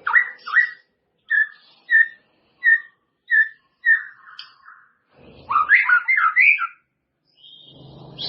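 White-rumped shama singing: two quick notes, then a run of six clear whistled notes about two-thirds of a second apart, then a rapid warbled phrase of sliding notes. A harsher, noisier note follows after a short pause near the end.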